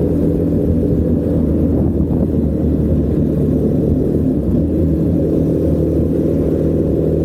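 Honda Rebel 250 motorcycle engine running at a steady speed while riding, a low, even drone.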